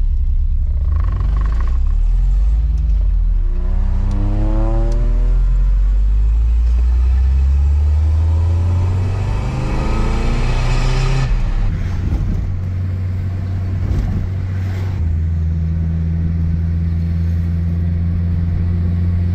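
Nissan 300ZX's swapped-in KA24DE four-cylinder engine, on its new fabricated exhaust, heard from inside the cabin while driving. The engine note climbs as the car accelerates, about four seconds in and again around ten seconds, then runs steadily.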